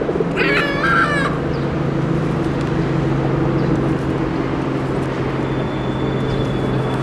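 Birds being hand-fed give a few wavering, squawking calls in about the first second, then fall quiet. A steady low hum runs underneath throughout.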